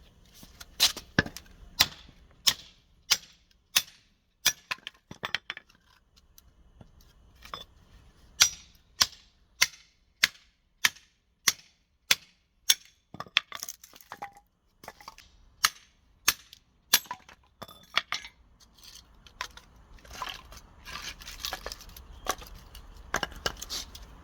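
Firewood being split into kindling: a long run of sharp chopping strikes on wood, roughly one to two a second, giving way to looser, scrappier knocking and rustling near the end.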